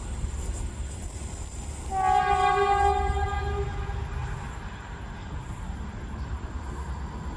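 Commuter train horn sounding one steady blast about two seconds in, strong for about a second and then fading, over a steady low rumble.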